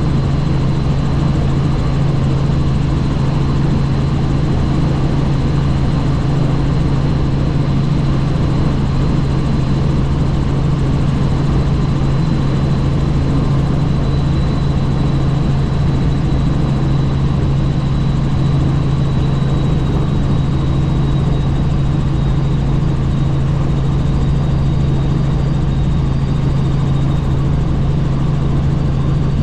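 Helicopter in flight heard from on board: a steady, loud low drone of rotor and engine with a thin high whine over it.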